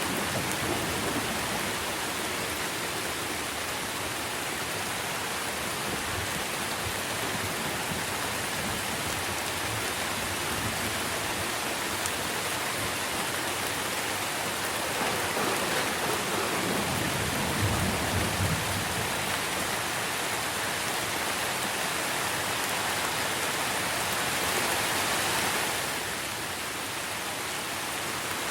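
Steady rain falling on trees and foliage, with a brief low rumble a little past the middle.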